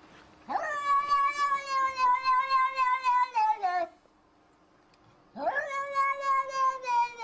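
Cat meowing: two long, drawn-out meows, each sweeping up at the start and sliding down in pitch at the end, with a short pause between; the second begins about five seconds in.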